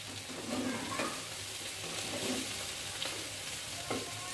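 Food frying and sizzling in a wok while a metal spatula stirs it, with clinks of metal on the pan about a second in and again near the end.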